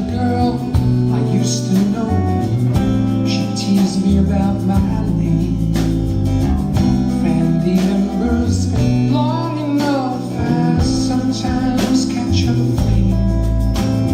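Live band rehearsing an instrumental passage: guitar and bass playing over a steady beat, with a short gliding melodic line about nine seconds in.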